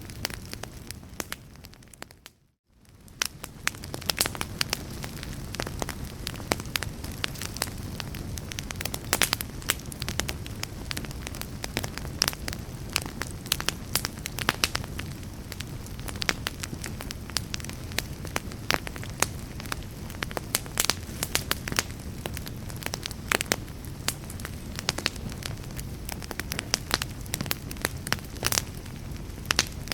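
Wood fire crackling, with frequent sharp pops over a steady low rumble of flame. The sound fades to near silence about two seconds in and comes back a second later.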